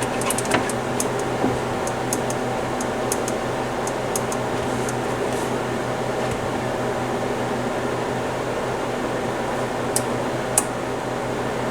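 Steady whir of a room heater running in the background, with a scatter of small sharp clicks in the first few seconds and two more sharp clicks near the end.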